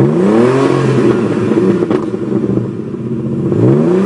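A 1983 BMW 533i's 3.2-litre straight-six, exhausting through straight pipes, is revved from idle. Its pitch climbs sharply at the start and falls back to idle, then climbs again near the end.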